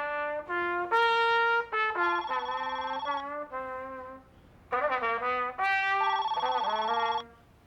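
A trumpet playing short phrases of notes while a telephone rings twice, each ring lasting about a second.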